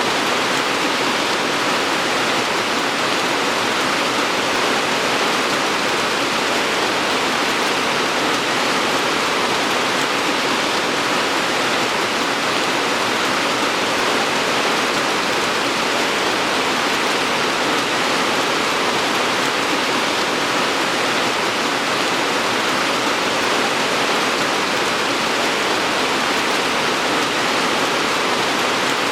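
Steady heavy rain: an even, unbroken hiss with no separate drops, thunder or other events standing out.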